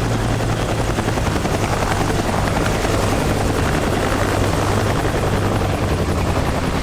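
Military helicopter in flight: a loud, steady rotor chop with engine noise underneath.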